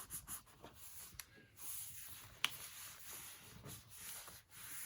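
Hands rubbing down freshly glued paper in a junk journal: soft, faint rustling and scuffing of paper, with a few light clicks and one sharper click about two and a half seconds in.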